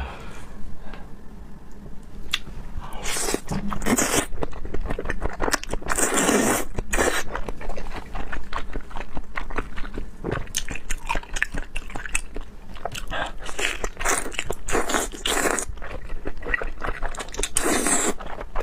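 Close-miked chewing and biting of raw seafood: a steady run of mouth clicks and bites, with a few louder bites along the way.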